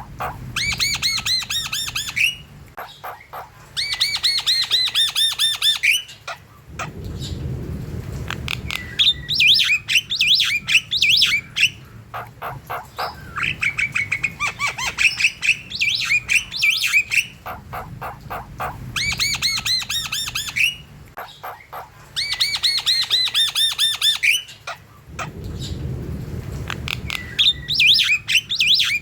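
A flock of Javan mynas singing hard. Bursts of fast, rapidly repeated high chattering notes about two seconds long alternate with lower, harsh rasping squawks.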